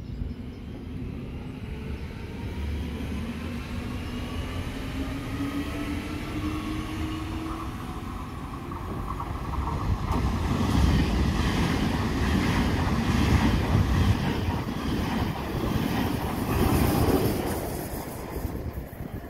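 An electric train passing. In the first half a whine slowly rises in pitch; from about ten seconds in it gives way to a louder wheel-on-rail rumble with repeated clatter, which fades near the end.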